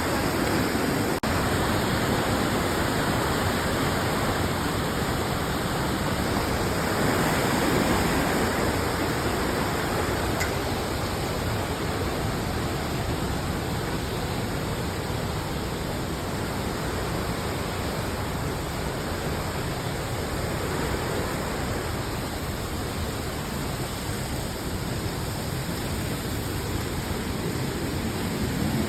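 Steady, loud rush of water from a waterfall or fast stream in a gorge.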